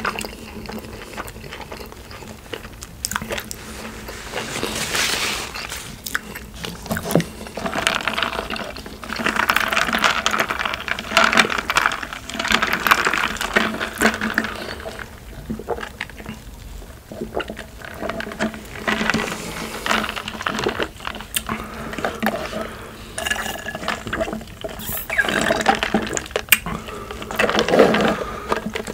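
Close-miked wet chewing and mouth sounds of someone eating, with irregular smacks and clicks throughout.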